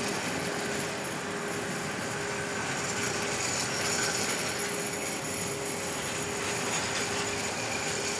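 Electric locomotive-hauled train coming slowly into a station platform: a steady hum and rush of its motors and blowers, with a faint steady whine.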